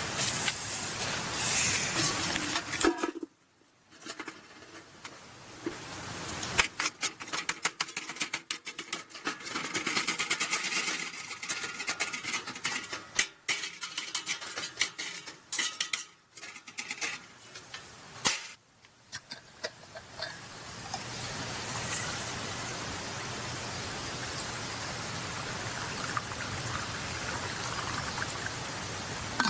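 Clinks, knocks and handling noise of a camp fire pit being taken apart and packed away, in several short clips with sudden cuts between them; the last third is a steady rushing noise without knocks.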